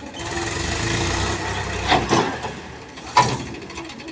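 Heavy vehicle engine running, rising over the first second and easing off, with two sharp knocks about two and three seconds in.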